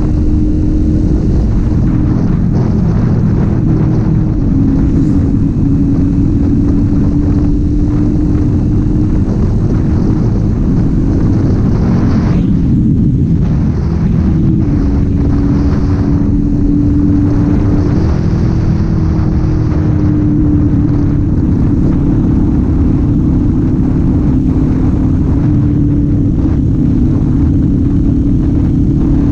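Kawasaki Z400's parallel-twin engine and exhaust running steadily while riding, under a heavy rush of wind noise. The engine note shifts slightly in pitch, with a brief dip about halfway through.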